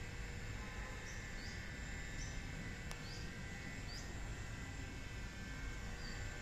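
Outdoor background with a steady low rumble, and a small bird chirping about six short, high chirps. A single sharp click about three seconds in.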